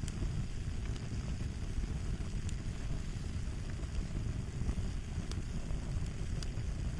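Fire crackling: a steady low rumble of flames with scattered small, faint pops.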